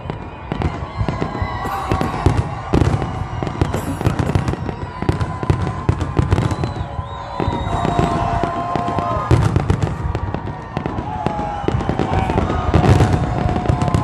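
Fireworks finale: a dense, continuous barrage of shell bursts and crackling, with no let-up.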